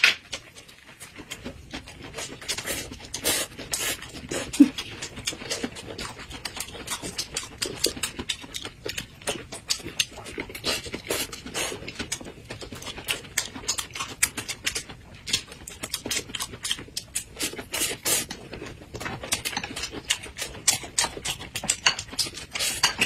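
Close-miked chewing and lip-smacking of two people eating rolled thin pancake wraps filled with lettuce: a dense, irregular run of quick smacks and clicks.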